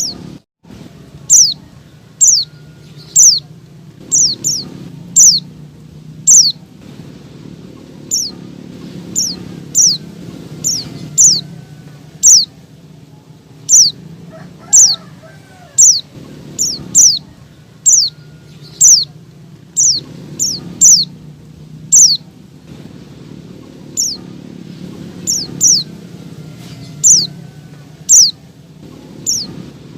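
Female white-eye (pleci) calling: short, high notes that slide downward, repeated over and over about once or twice a second, over a low steady background hum. This is the female's call to males, used to rouse caged white-eyes to sing.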